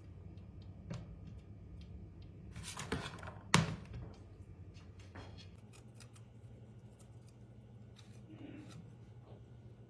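Rustling and scattered sharp clicks, the loudest about three and a half seconds in, over a steady low hum.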